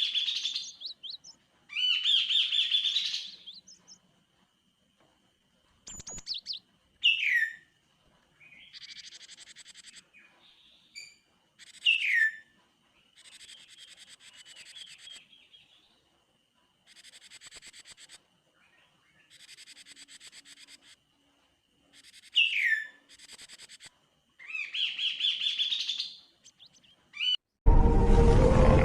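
Kaso-kaso bird singing in separate phrases, from quick falling whistles to longer buzzy trills, with a faint steady high tone beneath. About a second before the end, a loud burst of music or sound effect cuts in.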